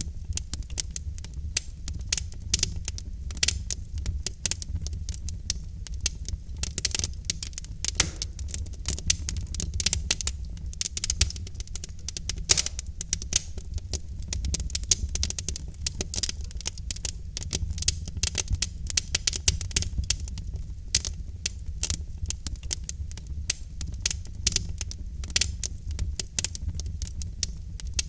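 Logs burning in a fireplace: dense, irregular crackling with louder pops here and there, over a low steady rumble.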